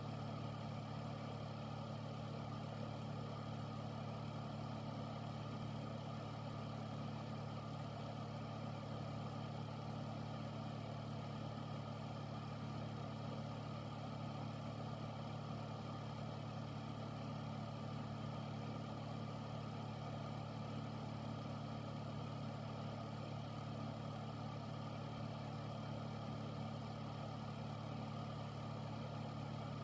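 An air filter unit running steadily: an even motor hum under a wide rush of moving air, with no change throughout.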